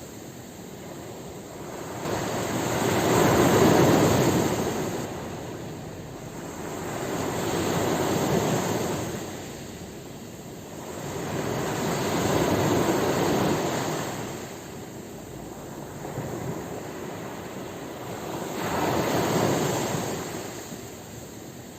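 Ocean waves breaking and washing up on the shore, the surf noise swelling and fading four times, with the loudest surge near the start.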